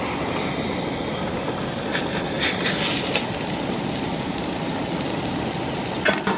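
Fajita chicken and vegetables frying in a pan on a camp stove: a steady sizzle with the stove running under it, and a few light knocks of a utensil against the pan.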